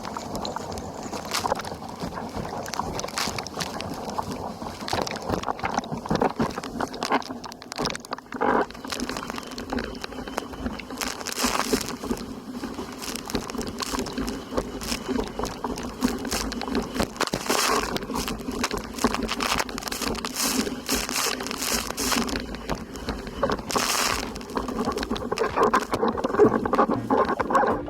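Windsurf board planing fast over choppy water: rushing water and wind noise with frequent splashes against the hull, over a steady droning hum.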